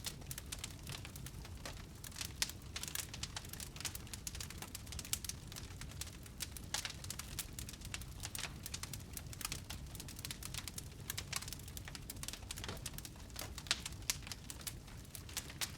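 Wood fire burning in a fireplace, crackling and popping irregularly over a low rumble of flame.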